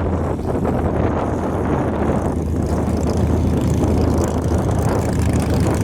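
Formula offroad truck's engine running steadily, a low hum under a dense rough noise.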